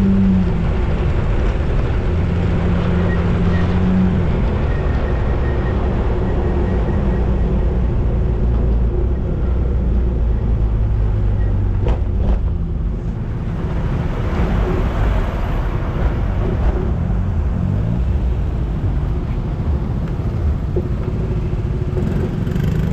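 Motorcycle engine running while riding, heard from a camera on the bike, its note stepping up and down with speed, over steady wind and road noise. A sharp click about halfway through.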